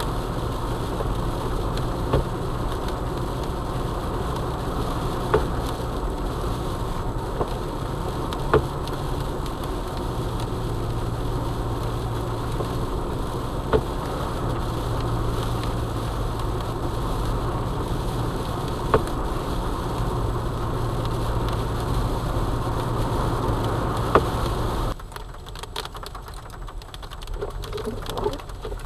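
Steady road and engine noise inside a moving car's cabin, with a low hum and six sharp ticks a few seconds apart. The noise drops abruptly about 25 seconds in, as the car slows.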